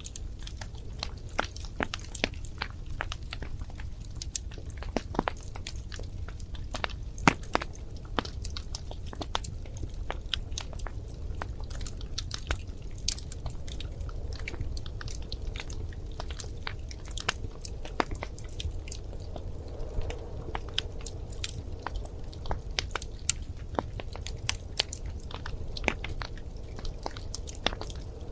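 Wood fire crackling in a fireplace: irregular sharp pops and snaps, some louder than others, over a steady low rumble of the burning flames.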